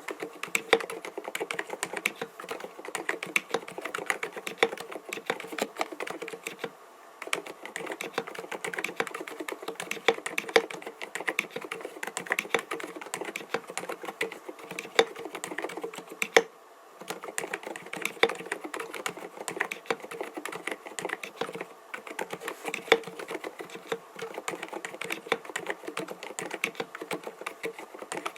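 Continuous fast typing on an mStone Groove T 87A mechanical keyboard with silent Milky 45 g switches: a dense run of muted keystrokes, broken by two short pauses, about a third of the way in and just past the middle.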